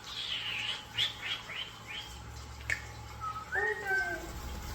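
Pet birds, European starlings and a cockatiel, chirping: a quick run of about five short chirps in the first two seconds, a single sharp click, then a longer call near the end.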